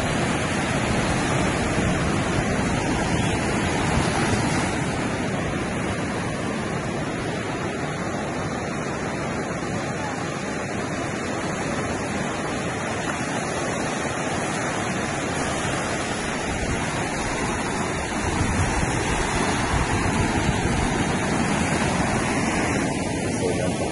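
Steady wash of ocean surf on a beach, growing a little louder near the end.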